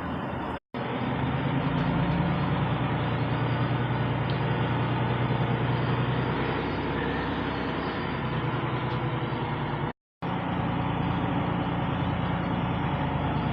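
Semi truck's diesel engine running steadily as the truck pulls away and drives, a constant low hum with road noise. The sound breaks off to silence twice, about a second in and again near ten seconds.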